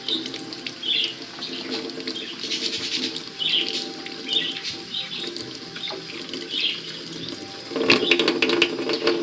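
Tap water running over seeds in a kitchen strainer as they are rinsed clean of dust, turning into a louder, splashier stretch near the end.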